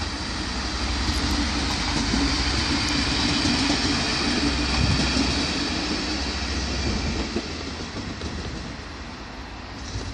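A DB Regio Alstom Coradia LINT diesel multiple unit pulling away: its diesel engine hums steadily under the rumble of wheels on the rails. It is loudest for the first few seconds as it passes close, then fades as it moves off.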